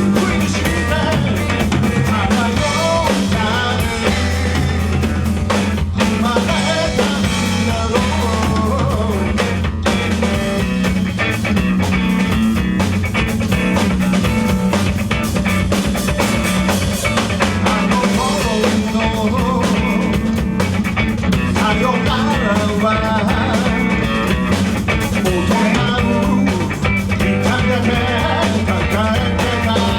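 A rock band playing loud live music, with drum kit and guitar.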